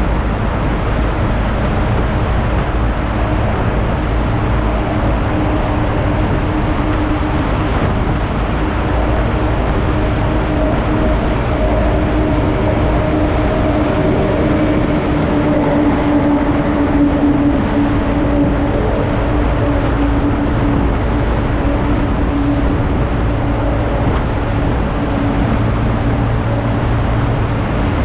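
Motorcycle running at a steady cruise, its engine drone under dense wind and road noise.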